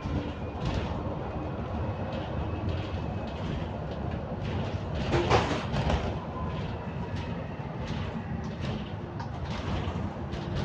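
London bus interior while moving: a steady low rumble of the running bus with frequent rattles and clicks from the body and fittings, and faint whining tones that slide slowly in pitch. A louder clatter comes a little past halfway.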